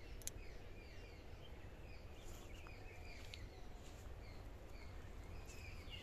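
Faint bird calls in woodland: many short, high chirps sliding downward, several birds calling over one another. A low steady rumble sits under them, with one brief click about a quarter second in.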